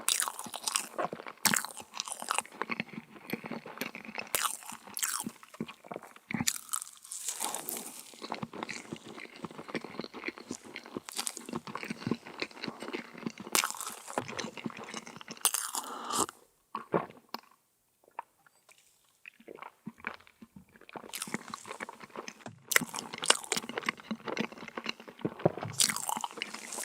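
Close-up crunching and chewing of a crisp meringue cookie: dense crackling bites and chews, with a pause of a few seconds past the middle before the crunching resumes.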